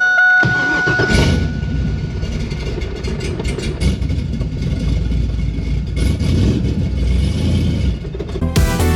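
Pontiac Trans Am's engine running with a loud, low exhaust rumble, a brief steady high tone sounding over it for about a second at the start. Music comes in near the end.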